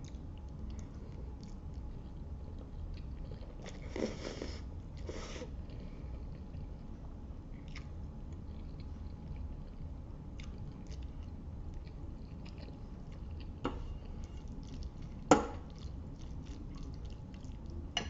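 Close-up chewing of spaghetti, with many small wet mouth clicks. There are two short noisy rushes about four and five seconds in, and a single sharp click near fifteen seconds, the loudest sound.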